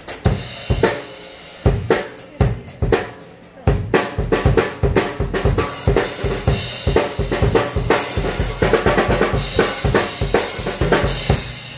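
Drum kit played solo with no backing music. Scattered strikes at first, then from about four seconds in a fast, dense run of hits that thins out near the end.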